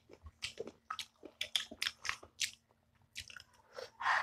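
Close-up eating sounds of chicken feet being bitten and chewed: a run of short, irregular wet smacks and crunches, pausing briefly past the middle. About four seconds in comes one louder, longer sound as a drink is sipped.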